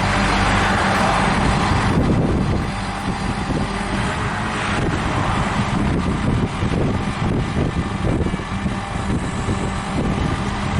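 Heavy truck's Cat C10 diesel engine running steadily under road and wind noise.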